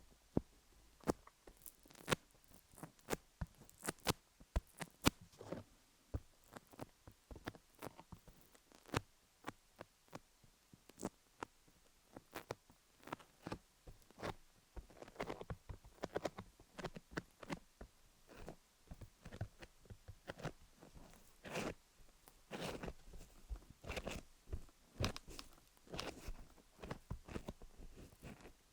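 Vaseline-coated fingers working over a rhinestone-covered dummy-head microphone, making irregular sticky clicks and crackles with no steady rhythm.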